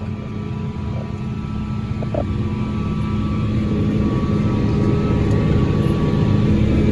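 Heavy farm-machinery diesel engine running steadily, heard from inside the cab, growing gradually louder as it works harder.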